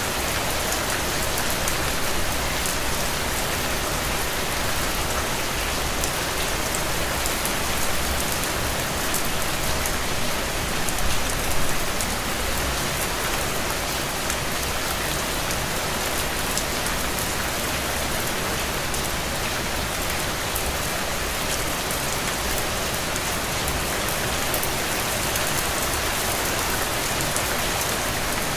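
Heavy, steady rain falling on wet ground and puddles, a dense even hiss with many individual drop impacts, swelling briefly louder about eleven seconds in.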